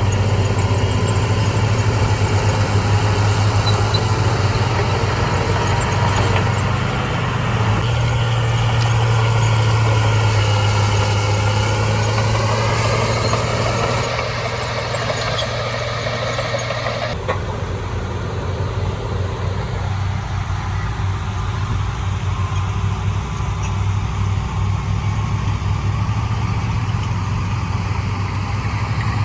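Large diesel engine of heavy earthmoving machinery running, with a strong low hum, rising and falling in pitch through the middle as it works under load. Past halfway the sound changes abruptly to a steadier, lighter engine run.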